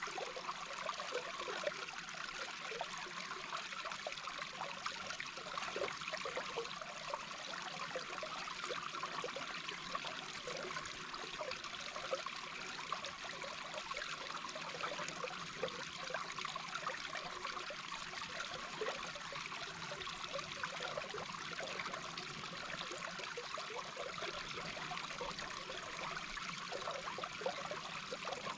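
A small babbling brook heard through an underwater microphone: a steady rush of flowing water with a constant patter of small quick pops and gurgles beneath it.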